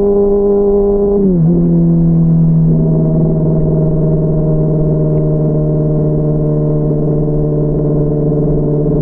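Honda CBR600RR inline-four engine running at steady revs, heard from a mic inside the rider's backpack. About a second in, the engine note drops quickly to a lower pitch, then holds steady.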